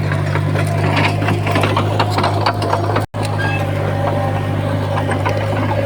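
Crawler bulldozer's diesel engine running steadily under load, with scattered knocks and clatter from the tracks and pushed stone. The sound drops out for an instant about three seconds in.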